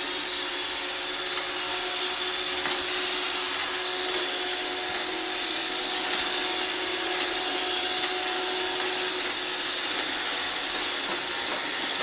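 iRobot Roomba 650 robot vacuum running, its vacuum motor and brushes giving a steady whirring hiss with a faint hum, just after start-up.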